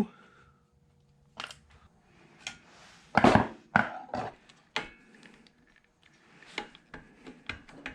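Scattered clicks and knocks of small metal parts being worked by hand, with a louder scrape about three seconds in, as the rear brake pads are freed and taken out.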